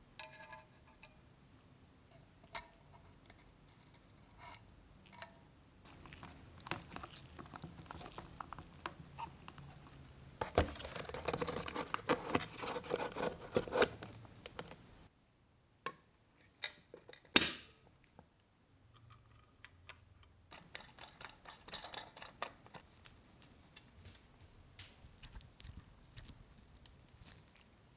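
Handling noises in a small room: scattered small clicks and taps, a denser stretch of rustling and scraping around the middle, and one sharp loud click shortly after.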